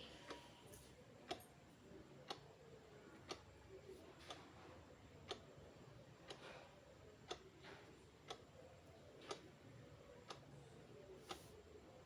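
Countdown timer ticking like a clock, one sharp tick a second, faint against a near-silent background.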